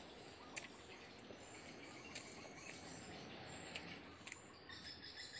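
Quiet chewing with the mouth closed, with a few short, sharp mouth clicks, over a steady chirring of insects; a higher cricket trill comes in near the end.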